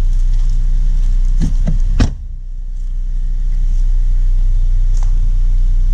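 Volkswagen Rabbit's 2.5-litre five-cylinder engine idling steadily. A single sharp knock comes about two seconds in, after which the sound briefly drops and then builds back.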